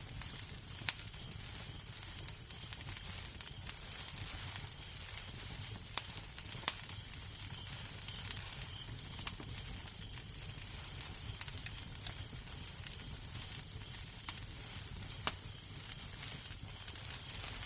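Wood fire crackling in a fireplace: a steady hiss over a low rumble, with sharp pops at irregular moments, one every second or two.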